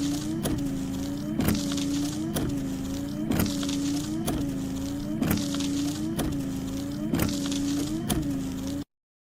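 Small electric motor running with a steady whine, broken by a click about once a second, each with a brief dip in pitch. It cuts off suddenly near the end.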